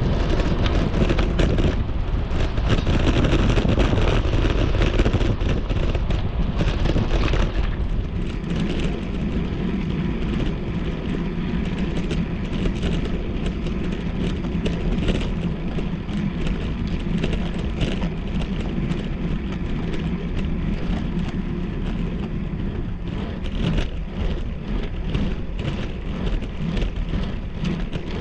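Wind buffeting the microphone and the hiss of rain and a wet road under a bicycle descending in the rain, with many small sharp taps. The high hiss eases about seven seconds in.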